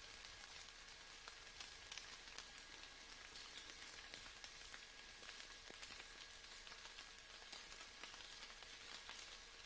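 Light rain pattering faintly: a steady soft hiss with many small scattered drip ticks.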